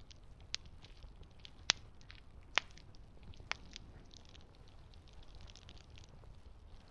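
Campfire burning: wood crackling over a low steady rumble, with four sharp pops about a second apart in the first half.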